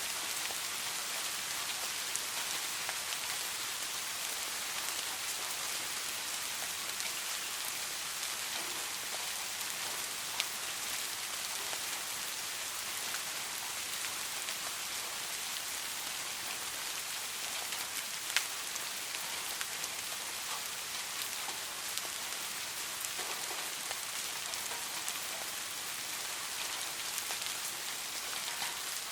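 Steady rain falling, a continuous high hiss with occasional louder single drop hits.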